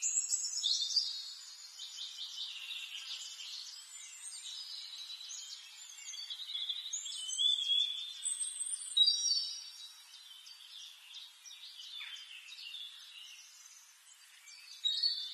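Birds chirping and whistling, many quick varied notes overlapping, with one sharp loud chirp about nine seconds in.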